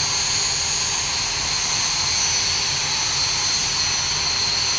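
BAE Hawk jet trainers' Adour turbofan engines running, a steady roar with a high, even whine over it.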